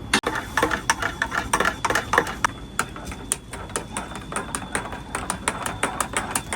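A quick irregular run of light, sharp clicks and taps from hard objects knocking together, several a second.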